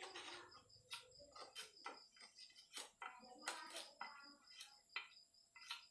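Faint, irregular clicks and knocks of hand work, several a second, some with a short metallic ring.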